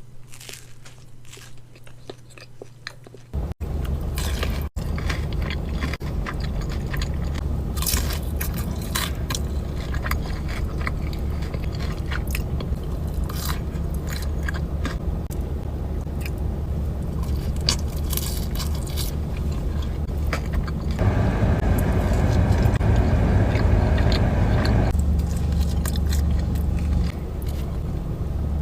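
Close-miked mukbang eating of Raising Cane's fried chicken fingers and sides: repeated crunchy bites and wet chewing. A steady low hum runs underneath, and the background changes abruptly several times where clips are joined.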